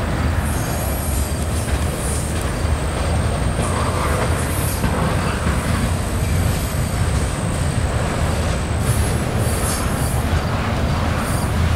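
A slow-moving freight train's cars, centerbeam flatcars and double-stack container well cars, rolling past with a steady low rumble of wheels on rail. A thin, high wheel squeal runs over most of it.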